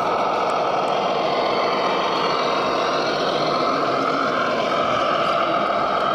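RC model trucks and construction machines running, giving a steady engine-like drone with a slight shift in pitch about four seconds in.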